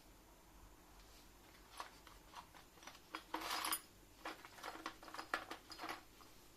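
Small metal parts or hand tools clinking and clattering as they are handled: a run of light clicks, with a short rattle in the middle.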